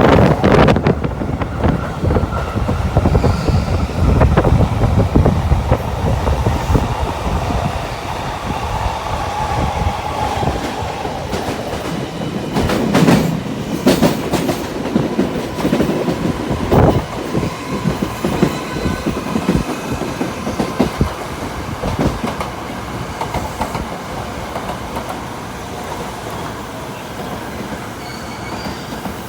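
Doctor Yellow Shinkansen inspection train running on the rails. A loud rumble in the first several seconds gradually dies away, with a few sharp clacks about halfway through.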